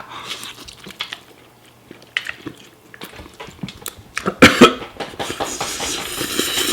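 A man coughing once, about four and a half seconds in, then drawing a long hissing breath, from the burn of extremely spicy ramen. Light clicks of a fork against the dish come before it.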